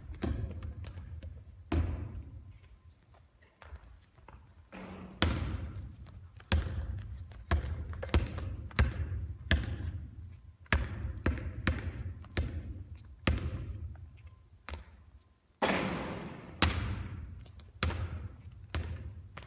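Basketball bouncing on a hard court, a string of irregular thuds about one a second, each trailing off in an echo.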